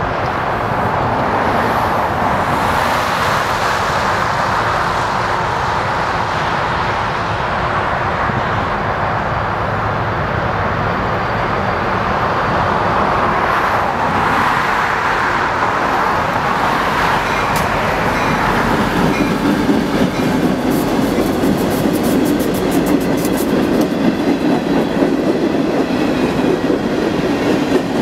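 Freight train led by GE diesel locomotives (an ES44AC and an AC44CW) drawing near and passing with a steady rumble. About two-thirds in, covered hopper cars roll by close, with a quick even clickety-clack of wheels over the rail joints.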